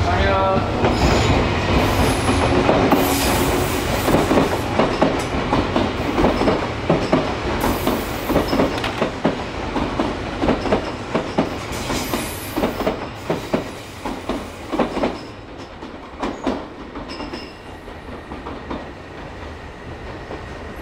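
Electric commuter train running past at close range, wheels clicking over rail joints above a steady rolling noise. It fades away over the last several seconds as the train clears the station.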